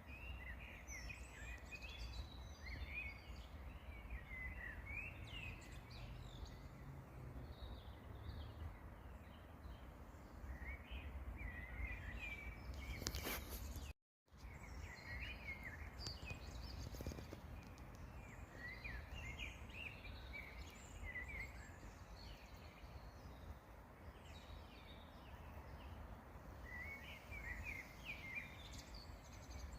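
Several songbirds chirping and singing in short, scattered phrases over a steady low rumble. About fourteen seconds in, the sound cuts out completely for a moment.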